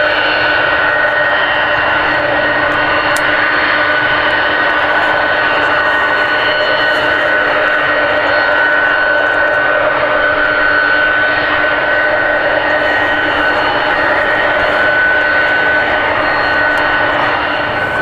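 Airbus A319 jet engines running with a steady whine made of several held tones, neither spooling up nor down.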